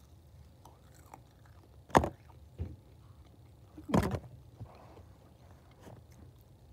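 Close-up eating sounds of a person chewing and biting meat off a fried chicken wing, with two sharp, loud bites about two seconds apart and faint smaller mouth clicks between them.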